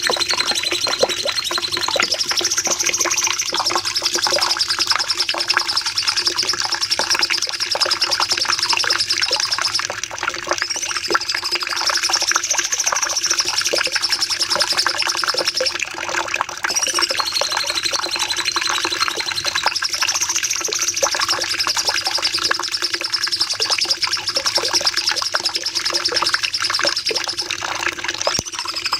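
Cucak cungkok songbird singing a long, unbroken rapid-fire song: dense fast chatter and trills, with a long high rattling phrase returning every several seconds. A steady low hum runs beneath.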